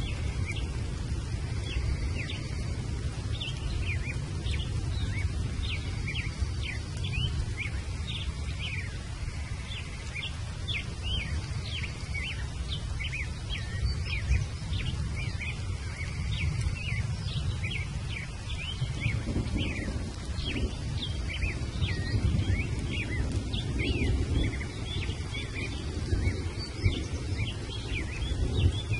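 Birds chirping: many short, quick sweeping calls, repeated continually and overlapping, over a steady low rumble.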